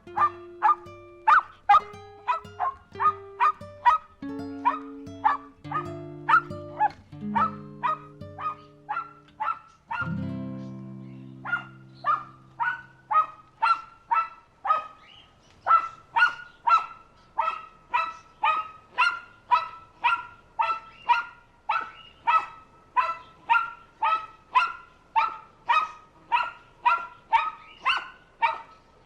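A dog barking steadily and evenly, about two barks a second. Background music with low held notes plays under the barks for roughly the first ten seconds, then stops.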